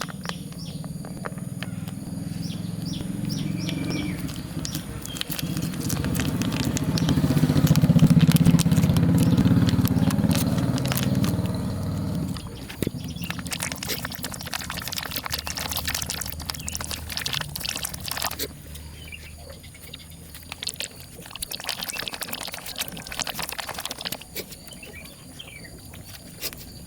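A motor vehicle engine running, growing louder for about eight seconds and then cutting off suddenly, followed by scattered scratching and rustling clicks.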